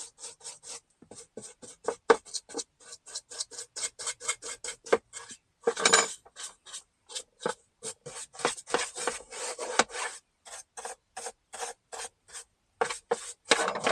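Small hand brush scrubbing back and forth inside a truck's center console bin, knocking dirt loose, in quick repeated strokes of several a second with a few short pauses.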